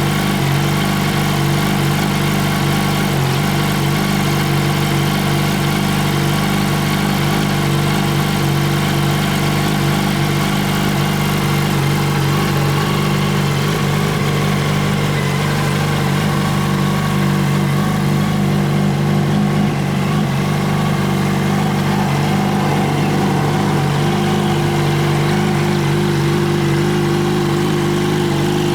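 2008 Yamaha R1's inline-four engine idling steadily through a Scorpion short exhaust with the catalytic converter removed.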